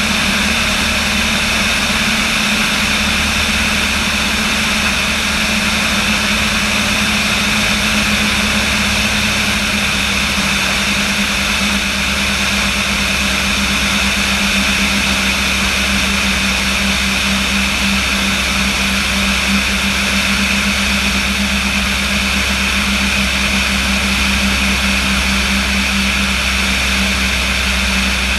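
A light airplane's piston engine and propeller running at steady power: an even drone with a steady hum and whine.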